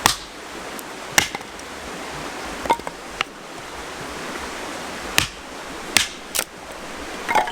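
Hatchet splitting firewood into kindling on a wooden chopping block: about eight sharp, irregularly spaced knocks of blade on wood, over a steady background hiss.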